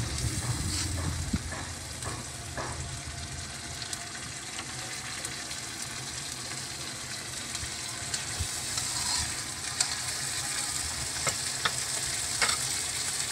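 Chicken karahi gravy, with freshly added ground fried onion, sizzling steadily in a kadai as it is stirred with a slotted metal spoon. There are a few sharp clicks of the spoon on the pan, mostly in the first few seconds and again near the end.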